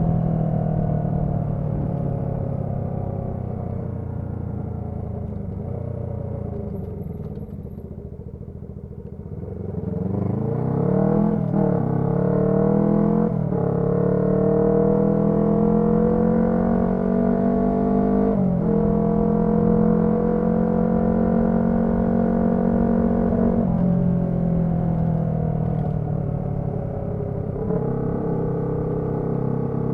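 Honda CB125T's twin-cylinder engine through a loud muffler while riding: the note falls as the bike slows for the first nine seconds or so, then climbs in pitch through three upshifts before settling into a steady cruise.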